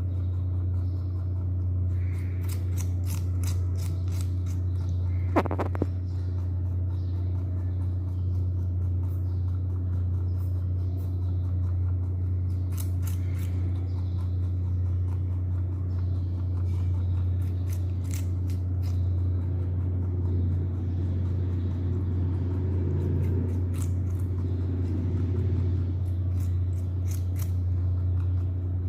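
A rabbit chewing cucumber: short bursts of crisp crunching clicks that come and go, over a loud steady low hum. One sharp brief sound stands out about five seconds in.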